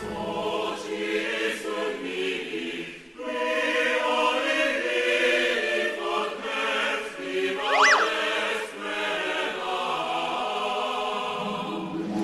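Choral music, voices singing sustained chords. About eight seconds in, a quick rising whistle sounds over it.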